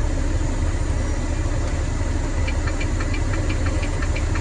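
Diesel engine of a training semi-truck idling steadily, heard from inside the cab. About halfway through, a quick, even series of light ticks starts up over it.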